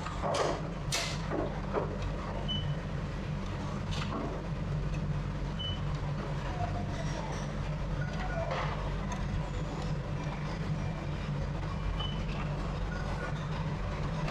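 Steady low mechanical rumble with a few sharp clicks and scattered short, high clinks.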